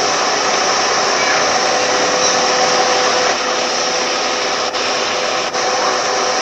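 An electric fan running steadily: an even whirring rush with a steady hum, dipping briefly twice near the end.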